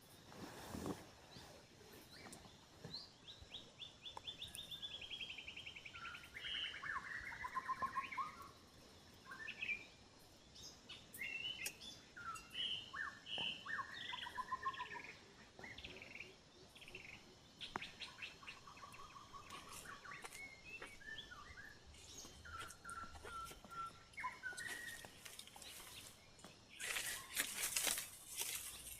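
Several wild birds calling and chirping, with a rapid trill falling in pitch about three seconds in and scattered short chirps and whistled notes after it. Near the end comes a brief, louder rustling noise.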